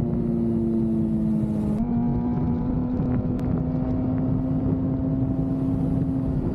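Motorcycle engine running at a steady pitch while riding, over wind and road noise, with a small shift in pitch about two seconds in.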